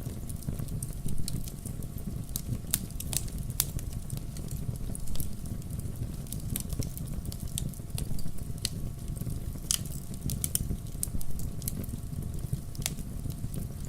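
Wood fire crackling in a fireplace: a steady low rumble with irregular sharp pops and snaps, several of them standing out.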